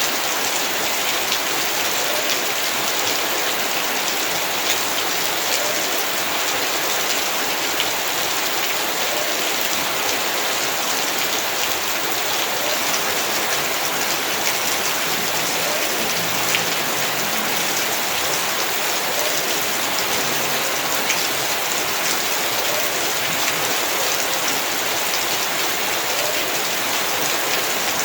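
Heavy rain falling steadily, with dense patter of drops striking surfaces.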